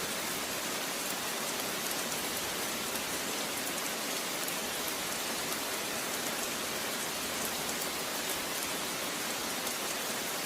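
Steady rain falling and pattering on a surface, an even hiss of drops with faint ticks of single drops.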